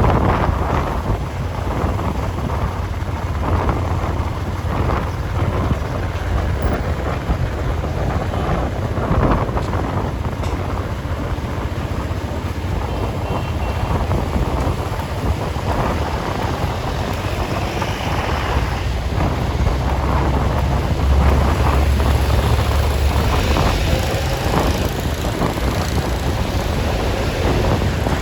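Steady road-vehicle rumble with wind buffeting the microphone.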